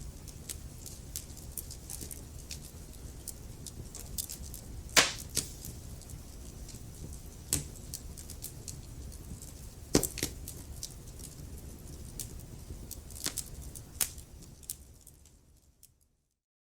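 Wood fire crackling in a fireplace: scattered sharp pops and snaps over the low steady rumble of the flames, with the loudest pops about five and ten seconds in. The sound fades out near the end to silence.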